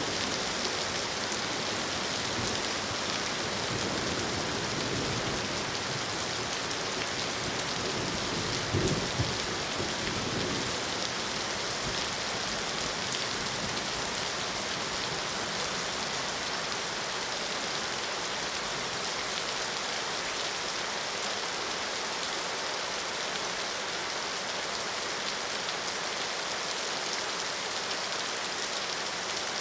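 Steady rain falling, an even hiss, with a brief low rumble about nine seconds in.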